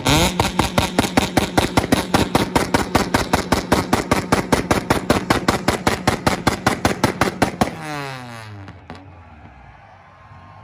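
Honda Civic engine held on a two-step launch limiter, firing a rapid, even string of exhaust pops and bangs at about six a second. Near the end the banging stops and the revs fall away as the throttle is released.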